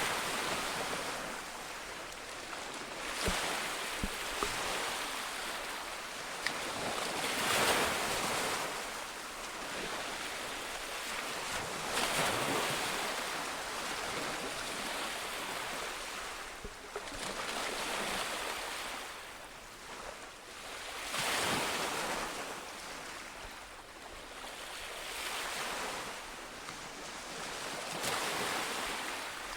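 Ocean waves breaking on a shore: a steady wash of surf that swells and falls back every four to five seconds, with a few faint clicks a few seconds in.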